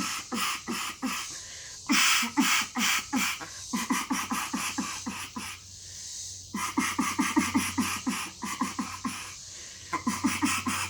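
Duck call blown on its insert end alone, without the barrel: several runs of short, quick quacking notes, about five or six a second, with brief pauses between runs, as in practising a greeting-call cadence.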